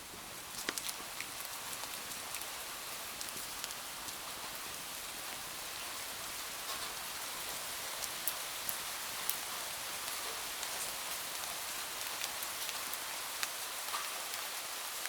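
Steady rain hiss with scattered sharp clicks, swelling up over the first couple of seconds and then holding even.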